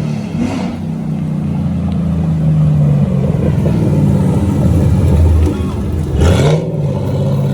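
A vehicle engine running hard with its pitch wavering, then a sharp rev blip about six seconds in.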